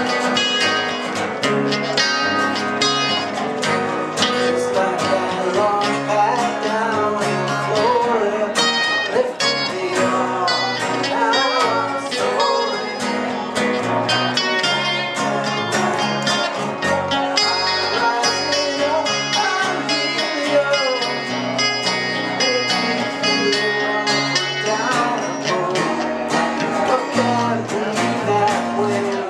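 Instrumental break in a country-style song: acoustic guitar and dobro playing together.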